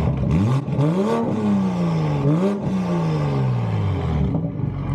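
Car engine revving a few times, the pitch climbing and falling, then dropping back to a steady idle near the end.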